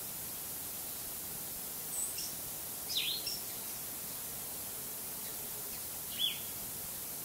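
A few short, falling bird chirps, one about two seconds in, a quick cluster about three seconds in and one more about six seconds in, over a steady outdoor hiss.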